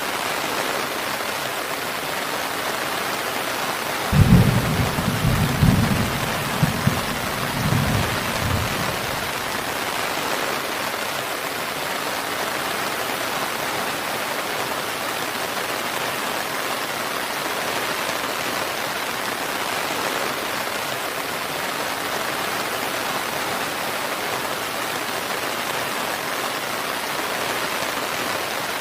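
Steady heavy rain falling, with a roll of thunder that breaks suddenly about four seconds in and rumbles low for about five seconds before the rain carries on alone.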